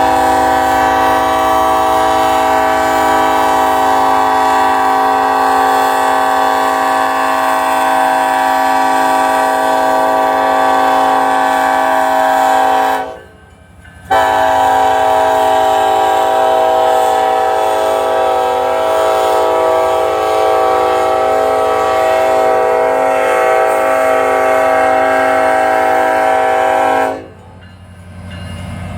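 Diesel locomotive's multi-chime air horn sounding two long blasts, each about thirteen seconds, separated by a brief break and cutting off shortly before the end: the crossing warning of a freight train slowly moving through a road crossing.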